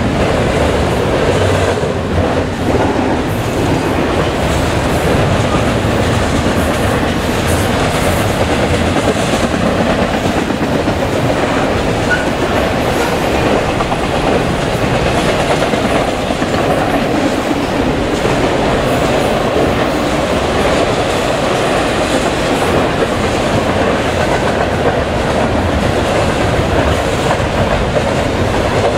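Double-stack intermodal freight train's well cars rolling past, with a steady, loud noise of steel wheels running on the rails.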